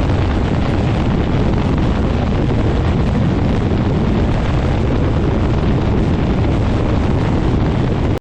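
Quicksilver MX ultralight floatplane's engine and propeller running steadily, the prop blast buffeting the microphone with heavy wind noise.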